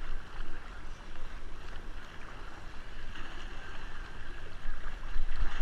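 Kayaks being paddled, with water splashing and sloshing around the hulls and paddles over a steady low rumble.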